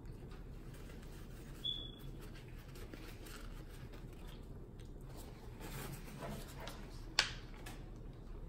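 Faint close-up eating sounds: chewing and soft mouth clicks as hot wings and fries are eaten by hand. A brief high squeak comes about two seconds in and a single sharp click near the end.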